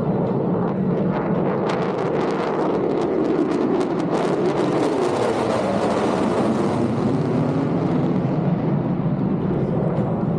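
Military fighter jet flying past, a dense engine rumble with crackling that swells and grows brighter around the middle, then eases off.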